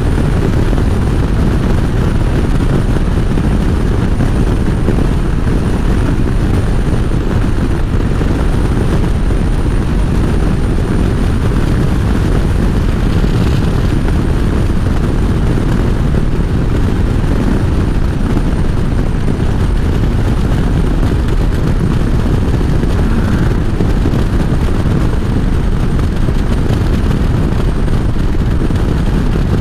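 Steady road noise from a Harley-Davidson motorcycle being ridden at speed: wind buffeting the microphone over the running engine, unchanging throughout.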